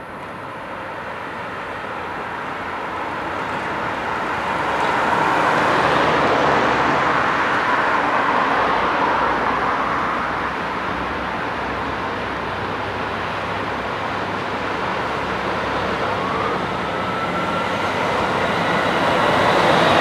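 Road traffic passing: a steady rush of tyres and engines that swells up to about six seconds in, holds, and rises again near the end.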